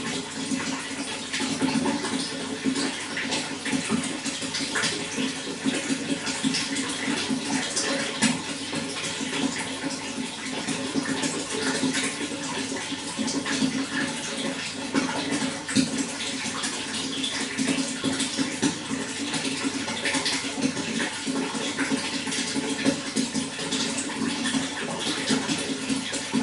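Water running and splashing steadily, with many small splashes and a low, full rushing sound.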